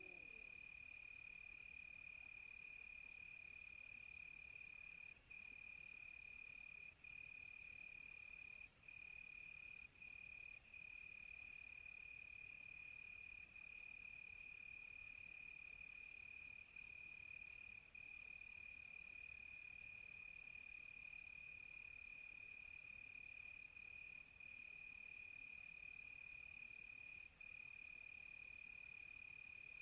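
Crickets chirping in a continuous high-pitched trill that drops out briefly every second or two, over a faint, even high insect hiss.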